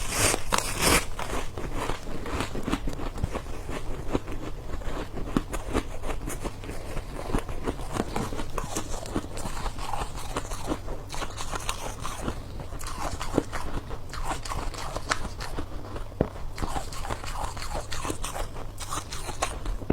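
Close-up chewing and crunching of ice in the mouth: a continuous run of small crackling crunches, with a couple of louder bites in the first second.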